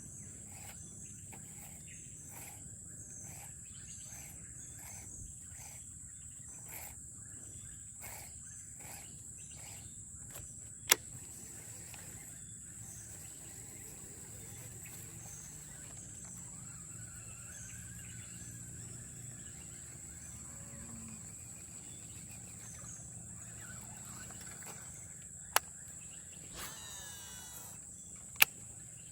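Steady high-pitched insect drone from the surrounding vegetation, with faint rapid ticking in the first third and three sharp clicks: one about a third of the way through and two close together near the end.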